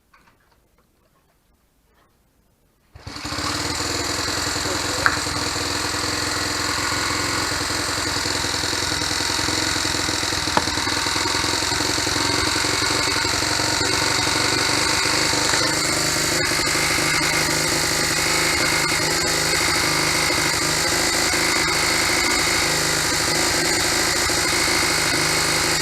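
Honda Monkey's air-cooled four-stroke single-cylinder engine starts suddenly about three seconds in and then runs steadily, with a couple of brief sharp clicks along the way.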